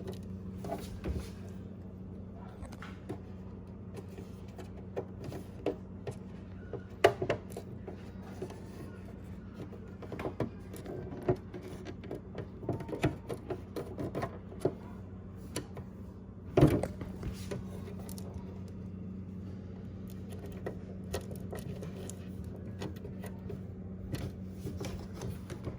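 Small plastic clicks and taps from hands handling a refrigerator compartment's parts and latch, with one louder knock about two thirds of the way through, over a steady low hum.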